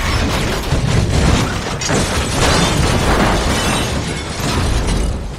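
Loud, dense run of film action sound effects: crashes, booms and explosion-like bursts packed closely together, easing off near the end.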